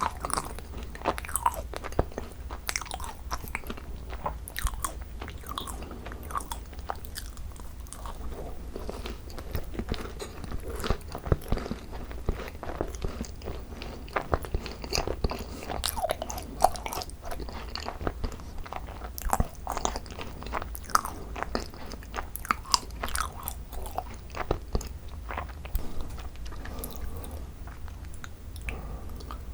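Chewing and biting into thick cream-filled Korean macarons (ddungcarons), picked up close to the microphone: a steady run of small crunches and clicks from the crisp shells.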